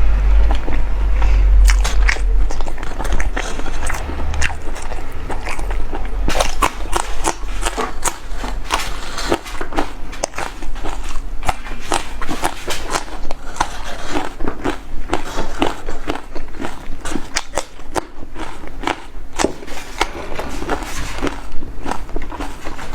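Close-miked eating of chicken: irregular wet clicks, crackles and crunches of biting and chewing, with a low rumble in the first few seconds.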